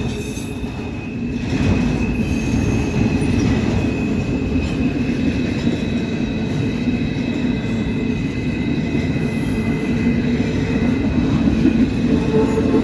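Cars of a long intermodal freight train rolling past, a loud steady rumble of wheels on rail. Thin, steady high-pitched wheel squeal runs over it.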